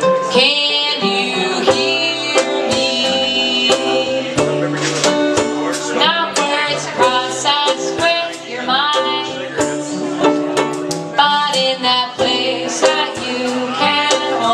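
Live acoustic band music with plucked strings and a melody line that slides between notes.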